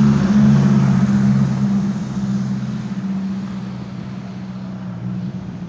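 Strong wind gusting, loudest for the first two seconds and then easing off, over a steady low hum.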